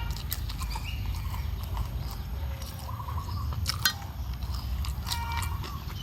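Close-up eating sounds: chewing and crunching of food such as crispy krupuk crackers, with sharp clicks, over a steady low rumble. A chicken clucks near the end.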